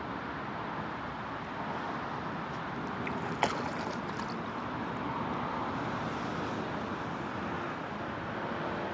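Steady outdoor wind and water noise, with one sharp click about three and a half seconds in.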